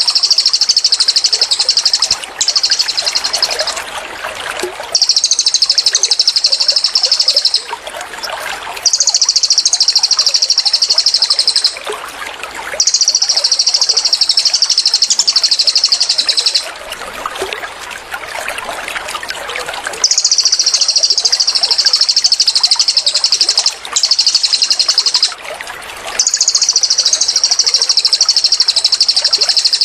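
Cililin bird giving its rapid rattling 'shot' (tembakan) calls: high-pitched bursts of fast repeated notes, each two to four seconds long, repeated with short pauses. A steady trickle of running water continues underneath.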